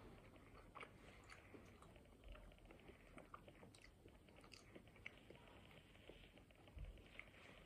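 Faint close-up chewing of soft tortellini, with small wet mouth clicks, and a light fork clink against the bowl about four seconds in.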